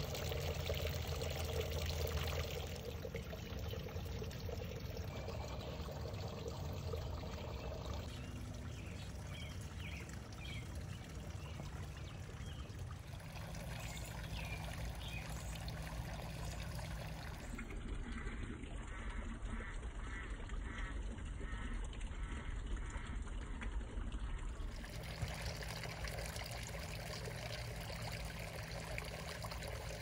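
Small birds chirping and calling now and then over a steady background hiss. About two-thirds of the way through comes a run of repeated short calls. The background noise changes abruptly several times.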